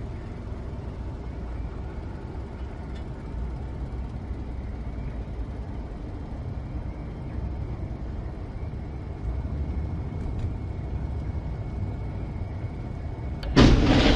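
Steady low rumble of a moving road vehicle. A sudden much louder sound cuts in near the end.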